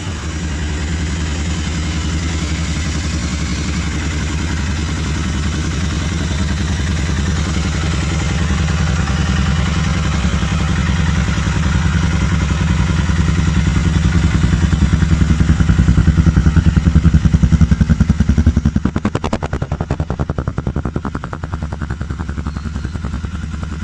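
Royal Enfield Interceptor 650's parallel-twin engine running steadily, swelling in loudness and then dropping away sharply about three quarters of the way through.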